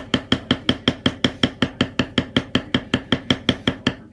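Leather tooling: a mallet tapping a metal stamping tool into leather in a fast, steady rhythm of about five strikes a second, each tap with a short ringing tone.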